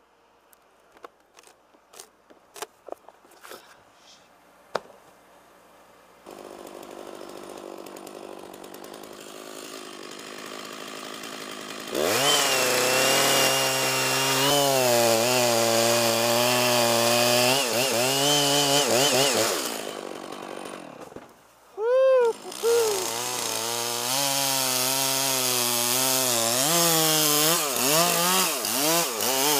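A few scattered knocks and clicks, then a steady hum, then a chainsaw running loud as it cuts oak wood, its pitch wavering under load. Partway through it drops off briefly, revs once and settles back into the cut.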